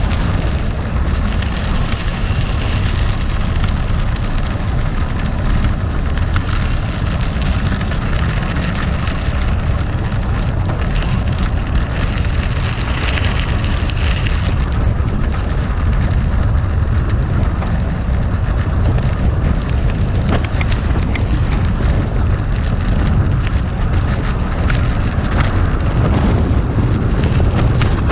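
Gravel bike tyres rolling over rough, loose gravel, a steady crunching rumble peppered with small clicks and pings of stones and bike rattle, with wind buffeting the microphone.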